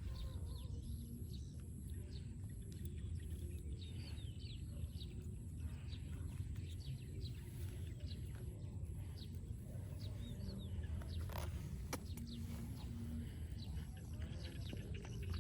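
Many short, high chirps scattered throughout, over a steady low rumble.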